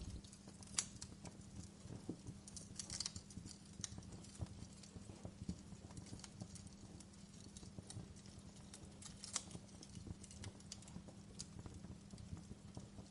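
Campfire crackling quietly: scattered sharp pops and snaps at irregular intervals, the loudest snap about two-thirds of the way through.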